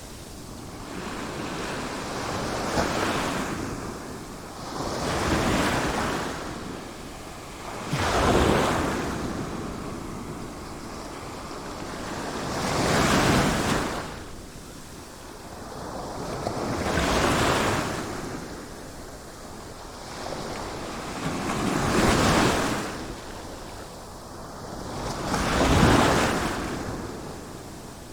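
Sea waves breaking and washing in, the surf swelling and falling away every few seconds.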